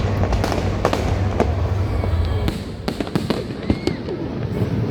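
Aerial fireworks going off: a rapid series of sharp cracks and pops over a constant low rumble, with a dense cluster of cracks about three seconds in.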